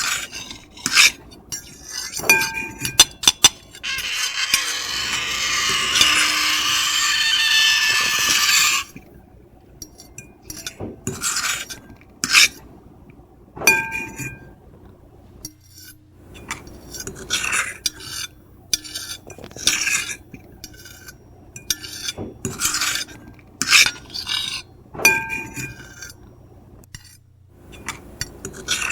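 Metal fork and knife scraping and clinking on a plate: many short scrapes and clinks, some ringing briefly, with one long continuous scrape of about five seconds a few seconds in.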